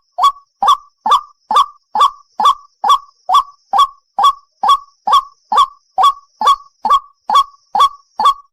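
White-breasted waterhen calling, a loud honking note repeated evenly about two and a half times a second, the bird's 'ruak-ruak' call used to lure the species.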